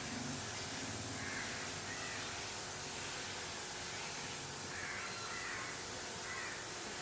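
A few faint bird calls, spaced a second or so apart, over a steady hiss.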